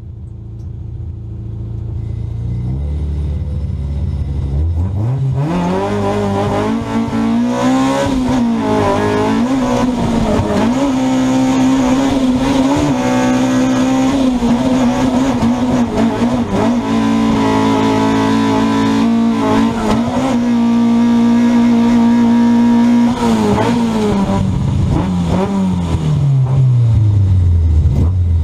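Drift car's engine heard from inside the cabin: the revs climb about five seconds in and are held high, dipping and rising again and again as the throttle is worked, then fall back to idle near the end.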